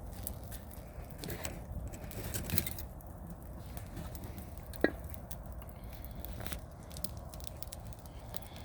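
Wood campfire crackling, with many small irregular snaps over a low, steady background noise. One sharp, loud pop comes about five seconds in.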